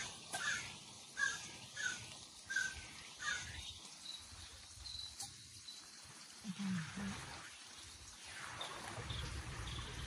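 A bird calling over and over, roughly one call every two-thirds of a second, stopping after a few seconds. The stream's water sound is largely stripped out by noise suppression, leaving faint, patchy background noise.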